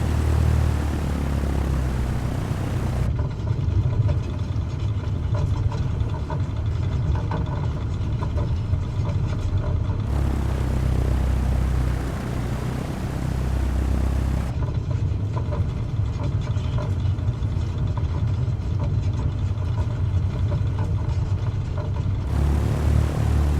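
Cessna 172 engine and propeller drone heard inside the cabin, a steady low rumble. Its tone switches abruptly a few times, turning duller in two long stretches.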